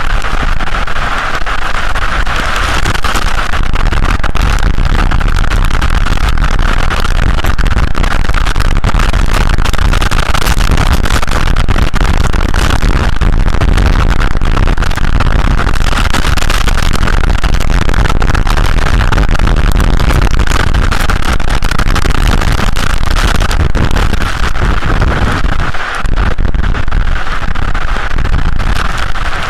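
Loud, steady storm noise: wind buffeting the microphone with a deep rumble under a continuous hiss, easing for a moment once near the end.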